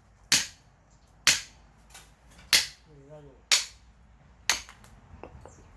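Five sharp strikes about a second apart, a tool hitting a log while splitting firewood by hand.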